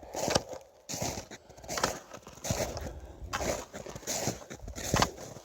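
Footsteps of a person walking at a steady pace, a little over one step a second.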